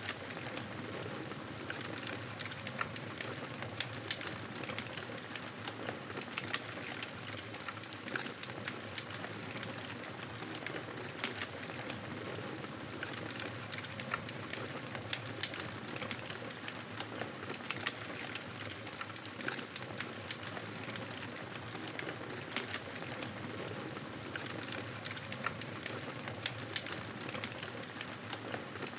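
Wood fire crackling in a fireplace: a steady hiss with frequent small pops and snaps throughout.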